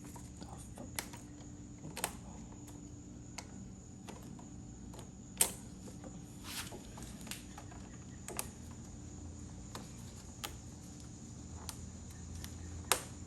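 Scattered light clicks and knocks of parts and tools being handled while working on a lawn tractor, about ten irregular taps, over a steady high-pitched tone and a low hum.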